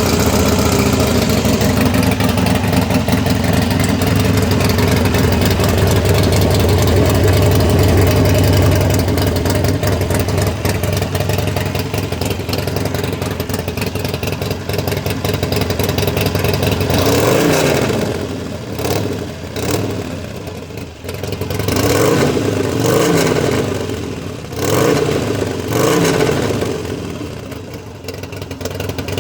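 Harley-Davidson motorcycle engine running through a newly fitted exhaust with no baffles, loud and steady at idle, then revved in several quick throttle blips during the second half.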